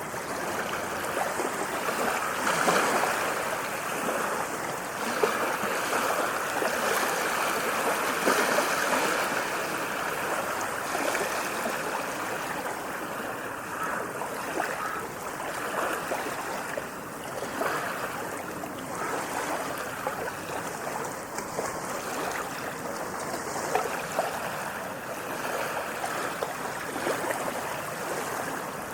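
Sea waves washing and splashing in a continuous rush of water that swells and eases a little every few seconds.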